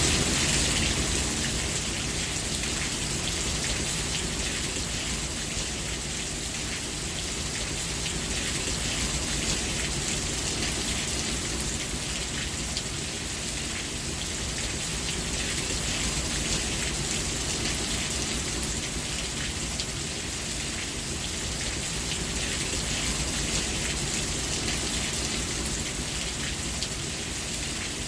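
Steady rain falling, a dense even hiss of drops with a low rumble underneath, its level gently swelling and easing over several seconds.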